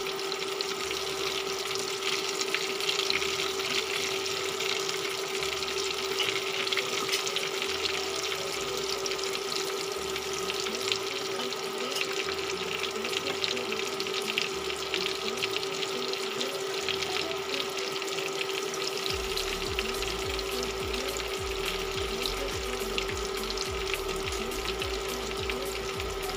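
Salmon steaks frying in butter and oil in a pan, a steady sizzle with fine crackling, under background music.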